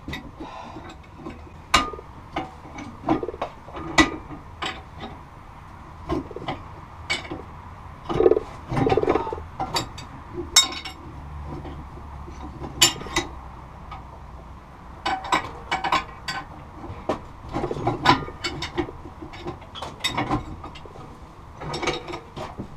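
Irregular metal clinks and knocks of hand tools working a broken exhaust pipe stub out of a Farmall Cub's cast iron exhaust manifold, with short scraping sounds between the strikes.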